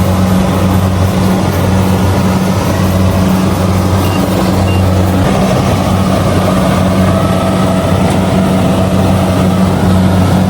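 Kubota DC70G rice combine harvester running steadily while harvesting, its diesel engine and threshing machinery making a loud, unbroken low hum over a broad mechanical noise.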